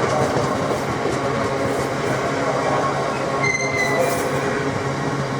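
Freight train hauled by two GBRf Class 66 diesel locomotives rolling through crossover points, a steady low diesel drone under continuous wheel and rail rumble. A brief high wheel squeal about three and a half seconds in.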